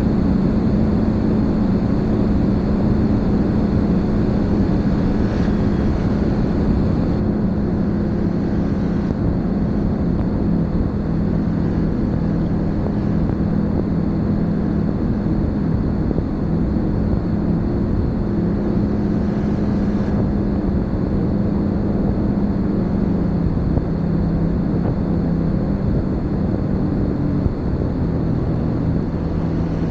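Snowmobile engine running at a steady cruising speed: a continuous drone whose pitch shifts slightly now and then.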